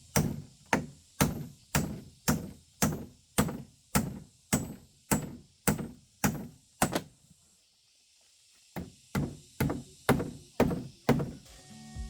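Steady, evenly spaced heavy knocks, about two a second, like blows of a hammer or chopping tool. They pause for about a second and a half around seven seconds in, then start again.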